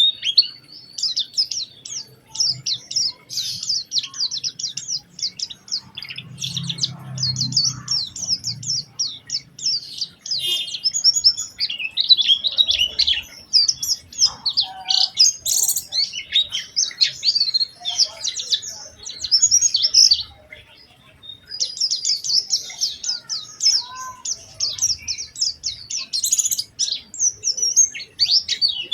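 White-eye (pleci) singing a fast, high twittering song of rapid chirps and trills, broken by a pause of about a second and a half about twenty seconds in.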